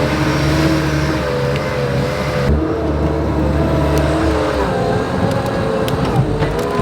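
Tractor engine running under load while hauling logs, its pitch rising and falling.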